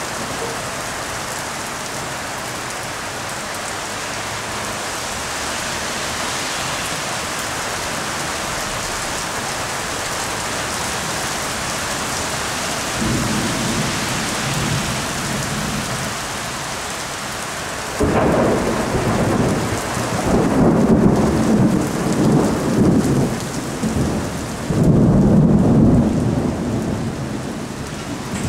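Thunderstorm: rain falling steadily, with thunder that begins as a low roll about halfway through. Then a sudden loud clap rumbles on for several seconds, and another loud peal comes near the end.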